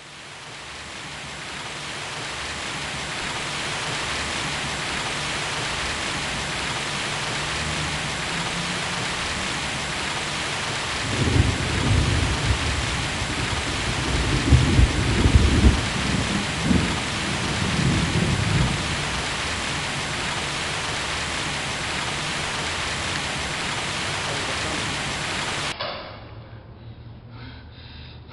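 Steady heavy rain that fades in over the first few seconds, with a long rumble of thunder through the middle. The rain cuts off abruptly near the end.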